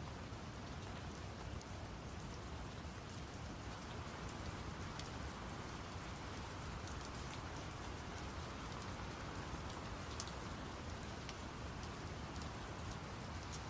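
Steady rain falling, with many small drop ticks, over a constant deep brown-noise hiss.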